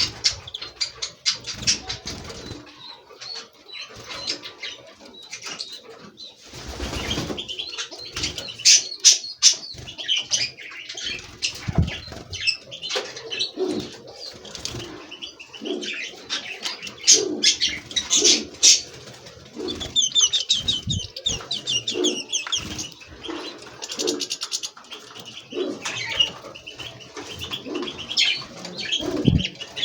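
Caged European goldfinches chirping and twittering in quick high runs, with wing fluttering and scattered low cooing calls underneath.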